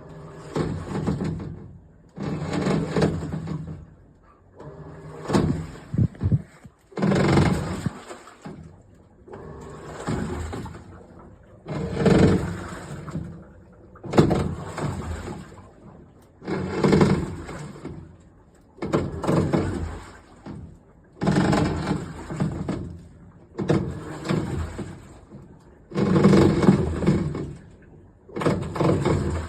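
Iris Ohyama IAW-T606-B top-loading washing machine agitating its wash: the motor drives the pulsator in surges of churning water about every two seconds, with short pauses between them as it changes direction.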